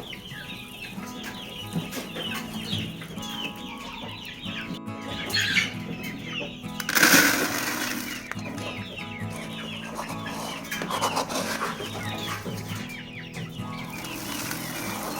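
A flock of chickens calling, with many short high peeps throughout. A loud burst of wing flapping comes about seven seconds in.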